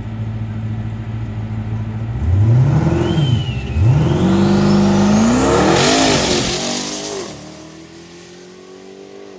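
Turbocharged Mopar V8 drag car holding on the line at a steady idle, then launching about two seconds in and accelerating hard. The engine pitch climbs, breaks at a gear shift near four seconds and climbs again under a rising whistle, then fades as the car pulls away down the track.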